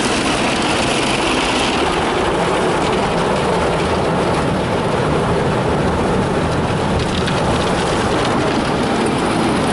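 Ryko Softgloss Maxx rollover car wash running its brush cycle, heard from inside the car: a loud, steady wash of brush and water noise on the bodywork. A hissing upper layer eases off about two seconds in.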